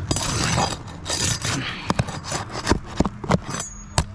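Roof shingles and their nails being pried loose: scraping with a run of sharp clicks and knocks.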